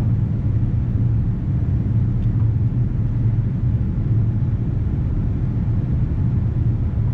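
Steady low rumble of Boeing 787-9 cabin noise, heard from a seat over the wing: engine and airflow drone with no change in level.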